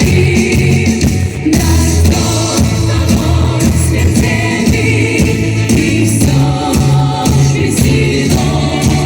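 A vocal ensemble singing a song in harmony over instrumental accompaniment with a steady beat.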